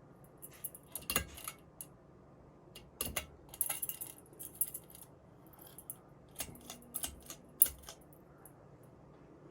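Light metallic clinks and rattles in several separate bursts, like small metal parts being handled and knocking together, with the sharpest click near the end.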